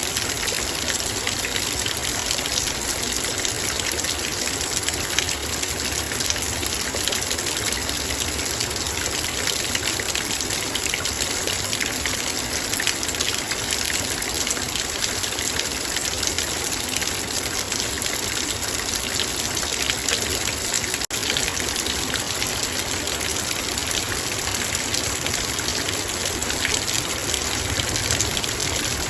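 Heavy rain pattering steadily on a metal bowl, a dense unbroken hiss of drops striking the metal. It cuts out for a split second about 21 seconds in.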